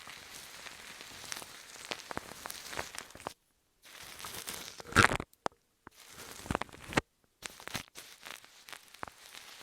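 Close-up crinkling and crackling with scattered sharp crunches, loudest a little past halfway, cutting out to silence three times briefly.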